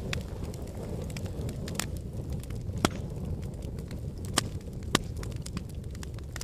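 Wood fire in a fireplace crackling: a steady low rumble of flames with scattered sharp pops, a few louder ones around the middle.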